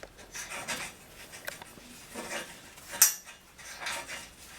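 Steel parts being handled on a truck frame: scattered metallic clinks and knocks, with one sharp metal clank about three seconds in.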